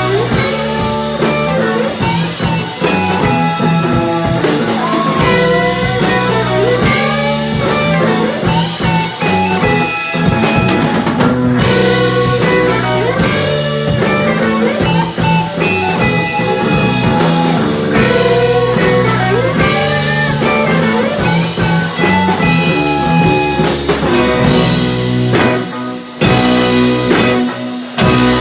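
Psychedelic rock band playing an instrumental jam live: electric lead guitar soloing with bending notes over bass and a steadily played drum kit.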